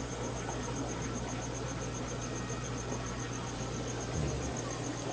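Steady hum and hiss of aquarium filters and pumps, with a fast, even, high-pitched chirping of about eight pulses a second running through it.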